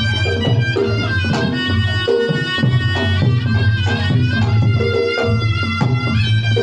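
Reog Ponorogo gamelan music: a piercing, reedy slompret (shawm) holds and bends a melody over a steady beat of kendang drums and gong-chime percussion.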